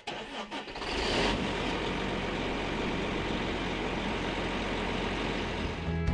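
2005 John Deere 9520 tractor's diesel engine starting: it catches at once, surges about a second in, then settles into steady running.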